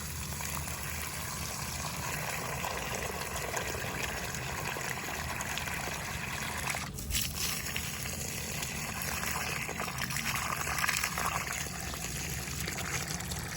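Water running from a garden hose and trickling onto plants being watered, steady, with a brief break about seven seconds in.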